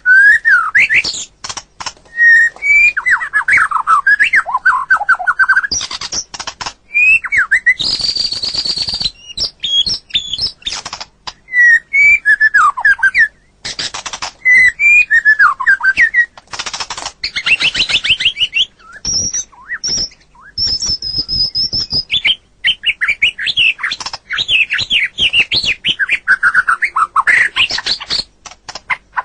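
White-rumped shama (murai batu) singing a long, varied run of loud phrases: clear whistles sliding up and down, fast trills, and harsh buzzing rattles, with short gaps between phrases.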